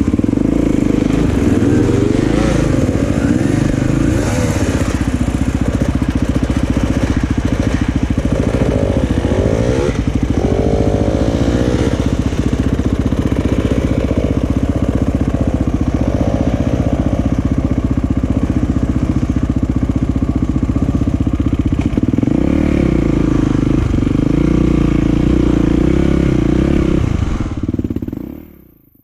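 Motocross dirt bike engines running loudly, with several wavering rises and falls in revs as the bikes are worked. The sound fades out quickly near the end.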